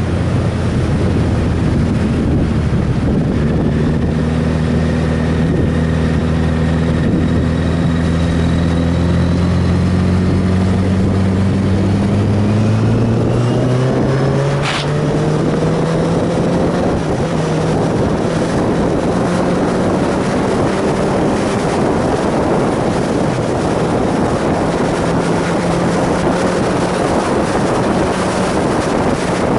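A vehicle engine running under heavy wind noise on the microphone; about halfway through its pitch climbs over a few seconds, a short click sounds, and it then runs steady at the higher pitch.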